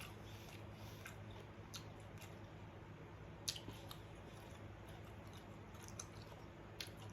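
Faint chewing and mouth sounds of a person eating, a few soft short clicks scattered through, over a low steady hum.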